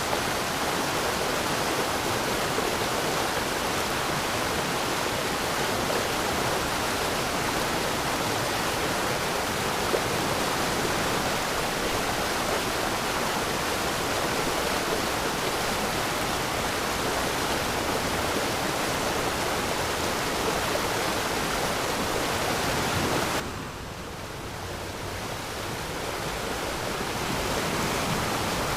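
Waterfall: a steady rush of falling water. A little past two-thirds of the way through it suddenly drops in level and thins in the highs, then gradually swells back.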